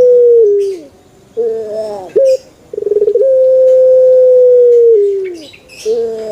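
Male Barbary dove (burung puter) cooing. The end of one long coo slides down, then come short rolling, falling notes. A second coo opens with a quick stutter, holds a steady note for about two seconds and slides down, and a shorter falling coo follows near the end.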